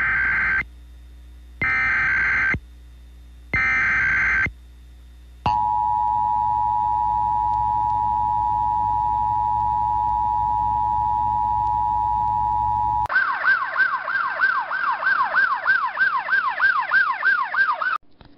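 Emergency Alert System broadcast tones: three short screeching data bursts, then the steady two-note attention signal held for about seven seconds, then a rapid up-and-down siren wail about three times a second. It is the alarm that opens a severe-weather warning.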